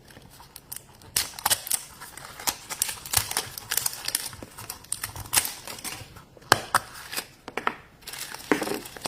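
Hands tearing open and crinkling a toy blind-bag wrapper, with many quick irregular clicks and snaps of plastic packaging.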